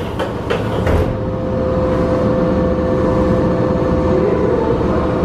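Interior noise of a Keisei 3400 series train at an underground station: a steady hum with one clear fixed tone, and a few short knocks in the first second.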